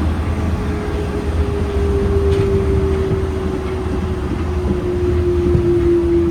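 Yurikamome rubber-tyred automated guideway train running, heard from inside the car: a steady low rumble with an electric motor whine that falls slowly in pitch.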